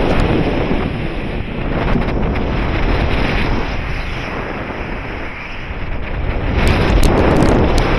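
Wind rushing over the microphone of a paraglider in flight: a loud steady rush that eases a little after the middle and swells again near the end, with a few sharp ticks at the high end.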